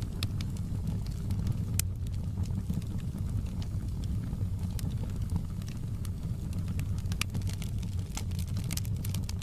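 Wood fire burning in a fireplace: a steady low rumble of the flames with irregular sharp crackles and pops, which come more often near the end.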